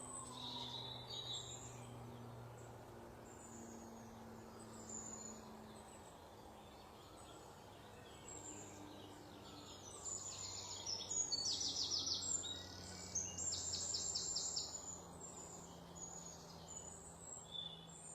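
Wild songbirds chirping and singing, with rapid trilled phrases loudest about two-thirds of the way through, over a faint low steady hum.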